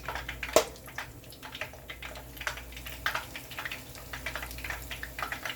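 Chicken fritter batter frying in hot oil, with a steady irregular crackle of small pops, and one sharp click about half a second in.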